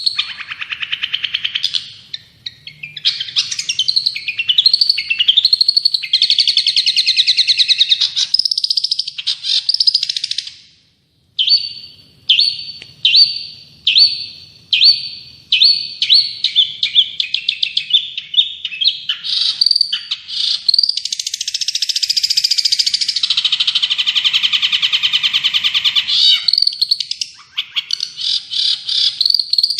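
Recorded songbird song used as masteran training material: varied chirps and warbles, and after a brief break about a third of the way in, a run of evenly repeated short chirps about two a second. Near the end comes a long, dense warbling trill.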